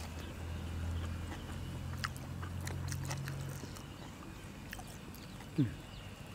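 Eating sounds: chewing and crunching, with many small sharp mouth clicks. Under them is a low hum that fades out a little past halfway. Near the end there is a short loud sound that drops quickly in pitch.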